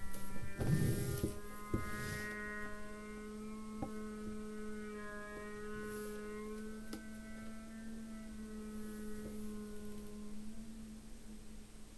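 Reconstructed dinosaur call played back: a low, steady humming drone with shifting tones layered above it, like a cow mixed with a machine. A short noisy burst about a second in.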